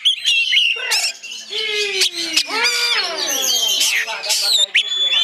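Oriental magpie-robin (kacer) singing in full song: a fast, unbroken string of varied whistles, rising and falling glides, trills and sharp clicks.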